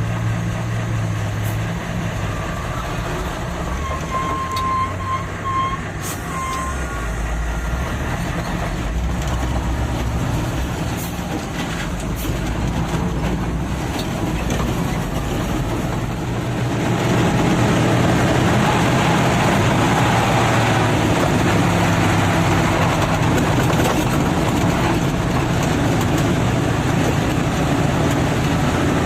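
Nissan TZA 520 dump truck's diesel engine running as the truck drives on, growing louder about two-thirds of the way through.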